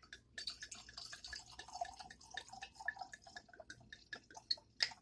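Wine being poured from a bottle into a wine glass: a rapid run of small glugs and splashes.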